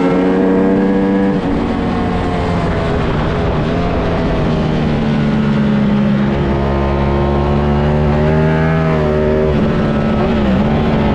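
Ducati Panigale V4S's V4 engine running hard on track, heard up close from the bike's nose, with wind rush. The engine note glides with the revs and drops sharply about a second and a half in and again near the end.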